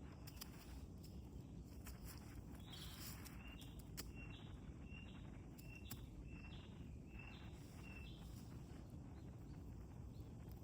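A bird calling a short, high note over and over, about twice a second, over faint outdoor ambience with a low rumble and a few scattered faint clicks.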